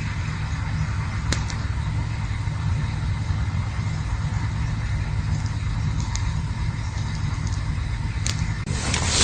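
Campfire burning: a steady low rumble with a few sharp crackles, and a louder rushing hiss that swells near the end.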